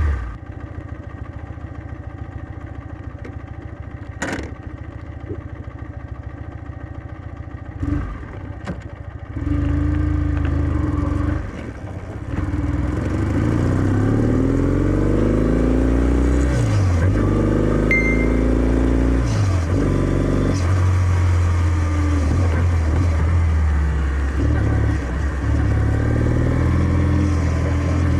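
Kawasaki W650's air-cooled parallel-twin engine idling through its stock exhaust, with two short clicks. About ten seconds in it pulls away, the exhaust note rising in pitch with each gear and dropping back at every upshift.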